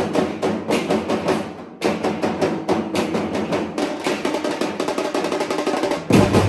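Music driven by fast, dense drumming, with a short break a little under two seconds in and heavier low drums coming in near the end.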